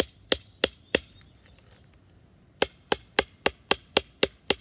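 Wooden baton striking the spine of a small Scandi-grind fixed-blade knife to split wood: sharp knocks, four at about three a second, a pause, then a steady run at about four a second.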